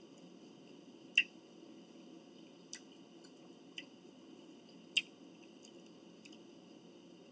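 Close-up eating sounds: a few sharp mouth clicks and smacks of chewing, the loudest about a second in and again at five seconds, over a faint steady room hum.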